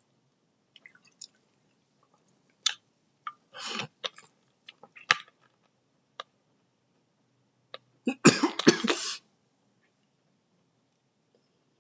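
A person coughing, a short burst about four seconds in and a louder run of several quick coughs about eight seconds in, between scattered small clicks.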